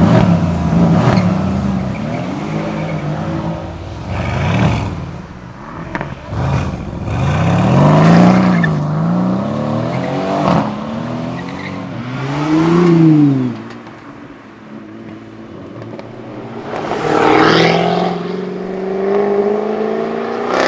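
Performance car engines revving hard as cars drive in: the engine note swoops up and down in quick blips, with several sharp cracks, then a car accelerates away with a long rising engine note near the end.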